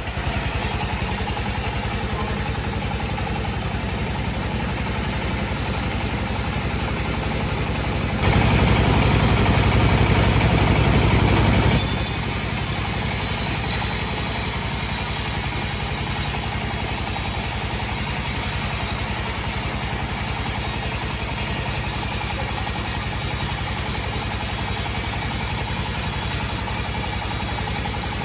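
Bandsaw sawmill machine running steadily, louder for about four seconds roughly a third of the way in, then settling back to its earlier level.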